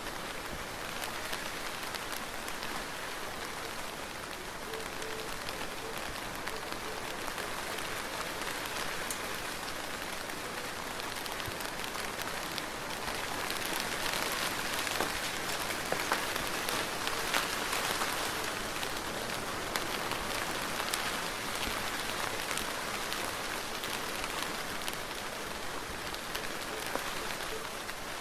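Soft, gentle rain falling steadily, with many small drops pattering and ticking on a surface. It swells a little in the middle and eases again toward the end.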